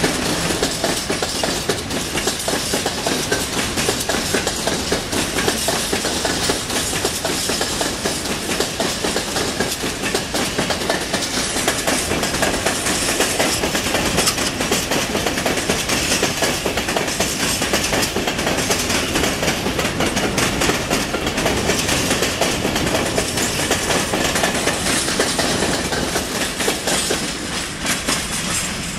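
A freight train's open-top wagons rolling past close by, their wheels clacking steadily over the rail joints.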